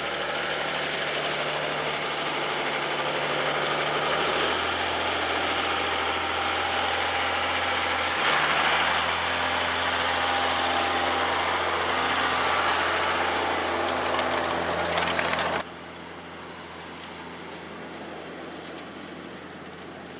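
John Deere 6150R tractor's six-cylinder diesel engine running steadily, its note shifting and growing a little louder twice. About 15 seconds in the sound drops sharply to a much quieter, duller hum.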